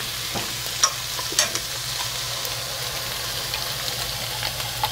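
Mutton liver pieces in masala sizzling steadily in a steel kadai on low heat, with a couple of light clicks about a second in.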